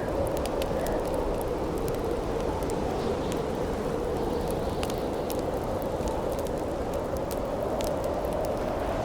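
Howling wind, a steady rush with a slowly wavering pitch, over the crackle of a wood campfire with scattered sharp pops.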